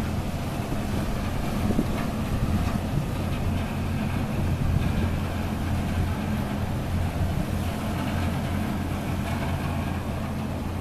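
Engines of the Queen Beetle high-speed ferry running with a steady low hum.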